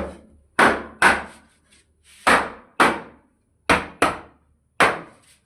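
Hammer blows on wood: about eight sharp strikes, several coming in pairs about half a second apart, each fading quickly.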